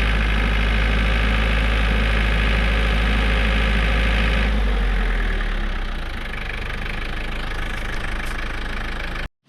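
Tractor engine running steadily, then throttling down about halfway through to a quieter, lower run. The sound cuts off suddenly near the end.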